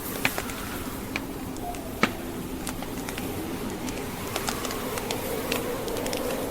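Logs burning in a fireplace, crackling with scattered sharp pops, the loudest about two seconds in, over the steady wind noise of a snowstorm with a faint wavering low hum.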